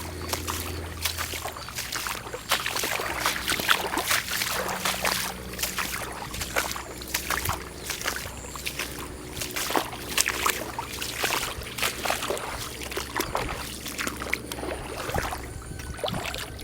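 Footsteps wading through shallow standing rainwater, each step sloshing and splashing in an irregular walking rhythm.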